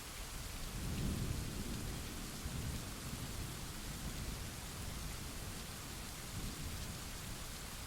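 Steady rain hissing, with a low roll of thunder that swells about a second in and rumbles on in waves.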